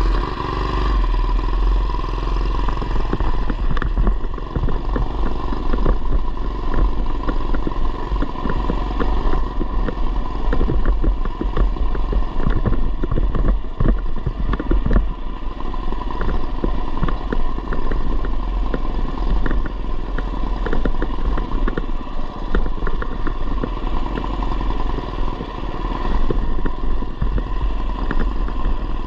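A 212cc single-cylinder engine on a Coleman BT200x mini bike runs under way, with many short knocks and rattles from the bike over rough ground.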